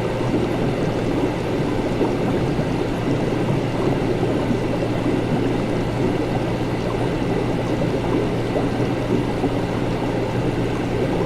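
Steady laboratory ambience: a constant low hum under a continuous grainy, rushing noise, with faint steady tones higher up and no distinct events.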